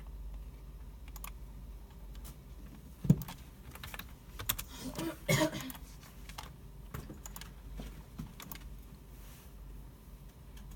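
Computer keyboards being typed on, with mouse clicks, over a steady low hum. One sharp knock comes about three seconds in, and a louder run of clatter follows around five seconds.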